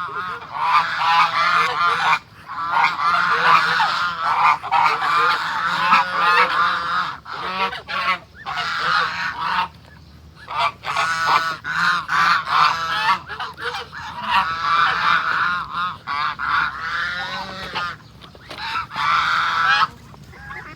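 A flock of domestic geese honking, many calls overlapping almost without a break, with a few short pauses.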